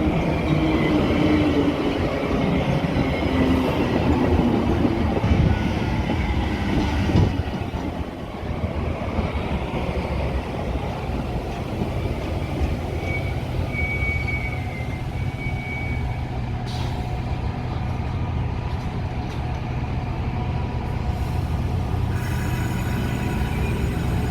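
Metra commuter train running on the rails: a continuous rumble, busier and louder for the first several seconds, then settling steadier, with a faint high wheel squeal about halfway through.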